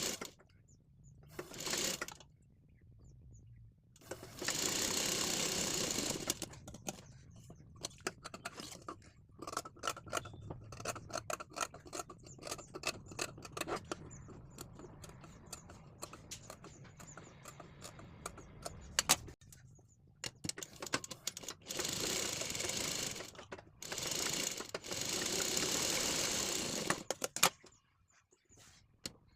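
Sewing machine stitching in several short runs of a second or three, stopping between them, with a longer stretch of quicker separate clicks in the middle.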